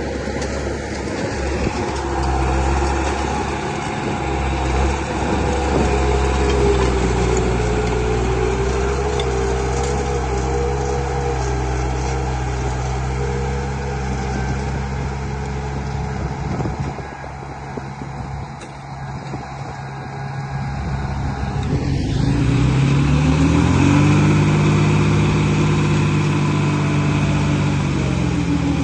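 Heavy-machine diesel engine running steadily, then revving up about 22 seconds in and holding at the higher speed.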